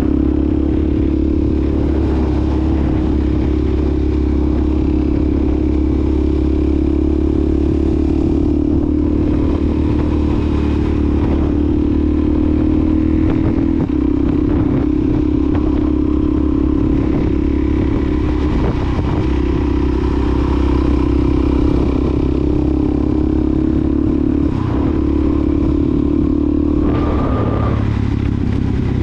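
2020 Suzuki DRZ400SM's single-cylinder four-stroke engine running through a Yoshimura exhaust, holding a fairly steady speed with only slight changes in pitch.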